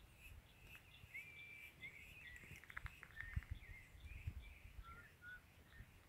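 Faint birdsong: short whistled notes and chirps, with one held whistle about a second in and a quick rattle of clicks about two and a half seconds in.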